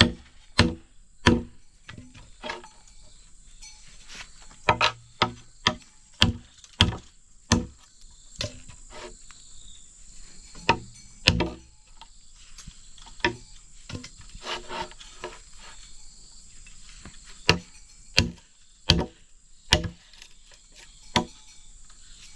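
Tool blows striking wood, sharp single knocks coming in irregular runs of quick strikes with pauses between, over a steady high drone of insects.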